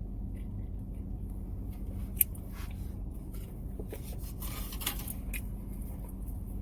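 Close-up eating sounds: biting into and chewing a brisket wrap, with a sharp click about two seconds in and a few brief rustling, squishy noises, over a steady low hum.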